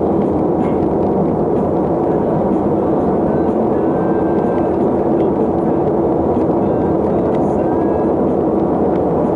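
Steady, loud road and wind noise of a vehicle in motion, with a few faint short high tones.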